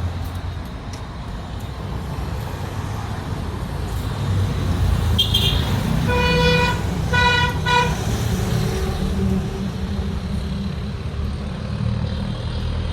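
Road traffic rumbling steadily, with a vehicle horn sounding about six seconds in: one longer toot followed by two short ones.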